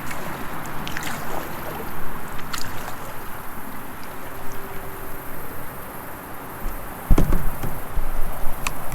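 Kayak on moving creek water: paddle and water lapping against the hull, with a few light clicks. About seven seconds in, a much louder low rumble with knocks starts suddenly.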